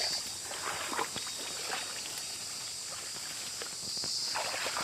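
Footsteps wading and sloshing through shallow water and vegetation, in irregular rustles, under a steady high-pitched whine that fades in the middle and returns near the end.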